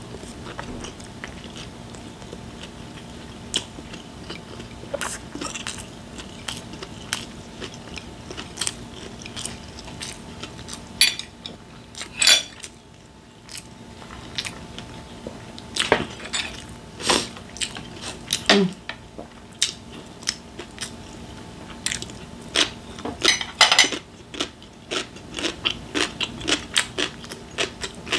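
Close-miked chewing and mouth sounds of someone eating a dumpling, with many small wet clicks and a few sharper ones. A faint steady hum lies underneath.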